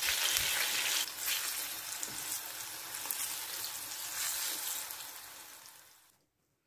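Sliced garlic and green chillies sizzling in hot oil in a stone-coated frying pan while a spatula stirs them, frying to golden brown for a tadka. The sizzle fades out near the end.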